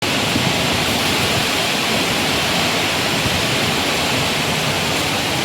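Strong wind blowing steadily, a constant rushing hiss with no gusts or breaks.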